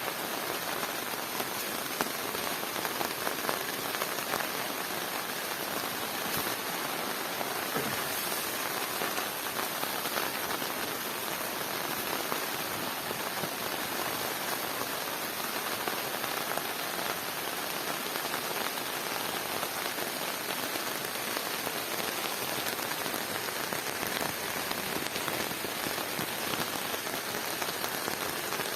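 Steady rain falling on the fabric of a Dhaulagiri Canopy Dome shelter during a rain test.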